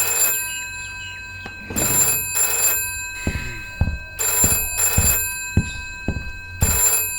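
Telephone ringing in repeated double rings, a pair about every two and a half seconds. A few dull thumps fall between the rings.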